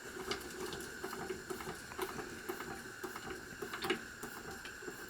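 Gas burner heating a hot air engine that is not yet running: a faint steady hiss and hum with many light, irregular clicks and ticks.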